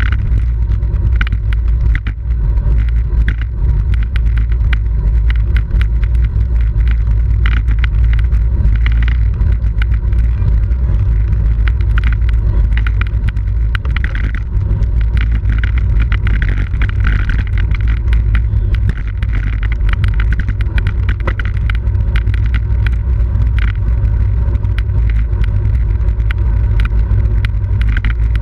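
Wind rushing over the microphone of a camera riding on a racing bicycle, a loud, steady low rumble. Frequent small clicks and rattles run through it.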